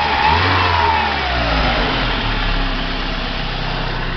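Chevrolet Vectra 2.0 four-cylinder engine coming down from a rev and settling into a steady idle. It runs quietly, its worn water pump having been replaced.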